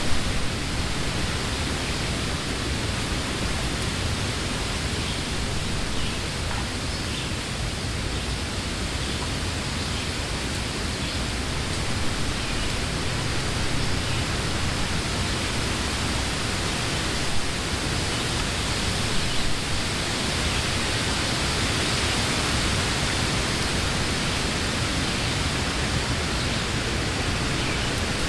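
Wind blowing through trees, a steady rushing of leaves and branches with a few slight brief swells.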